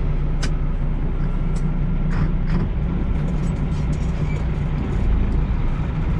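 Semi truck's diesel engine running steadily, heard from inside the cab, with scattered light clicks and rattles.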